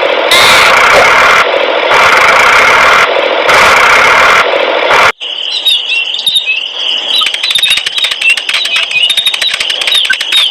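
Engine running, loud and steady but chopped into short spliced pieces; about five seconds in it cuts off abruptly and gives way to rapid clicking with a high wavering whine.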